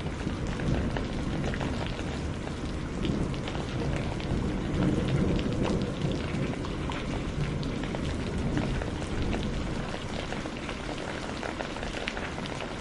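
Heavy rain with many separate drop impacts, and a low thunder rumble that swells and fades in the middle.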